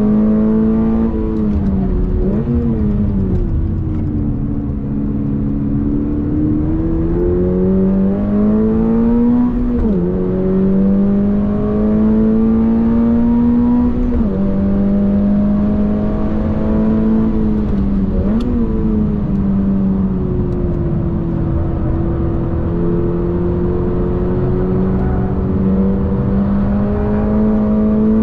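Toyota GR86's flat-four engine at full throttle on track, heard from inside the cabin. Its pitch climbs through the revs and drops sharply at each of several gear changes, sags lower once as the car slows, then climbs again over a steady road rumble.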